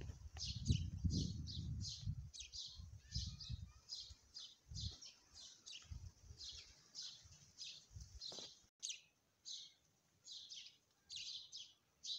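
Small birds chirping over and over in short, high chirps, about two to three a second, with low rumbling under the first two-thirds.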